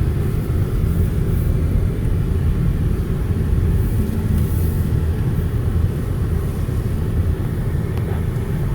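Steady low rumble of a car driving: engine and road noise with no pauses or changes.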